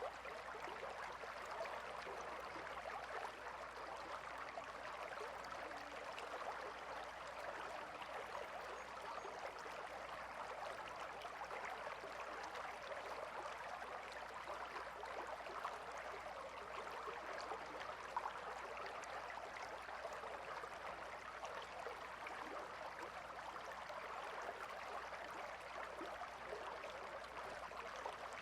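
River water flowing steadily, a continuous babble full of small splashes and gurgles.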